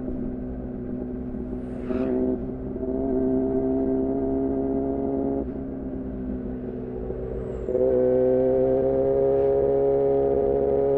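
2014 Yamaha R6's inline-four engine, breathing through an R9 titanium muffler and Leovince header, running at fairly steady revs under way. The throttle opens about two seconds in, eases off around five seconds, and opens again near eight seconds, with the pitch slowly climbing.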